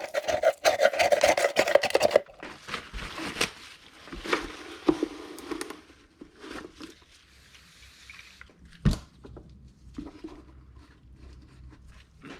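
Hand work on motorcycle airbox parts: about two seconds of rapid rattling strokes, then softer rubbing and scraping, and a single sharp knock about nine seconds in.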